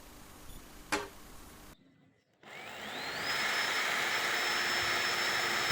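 A click, then a small electric motor starts up, its whine rising in pitch for about a second before it runs at a steady speed with a loud hiss.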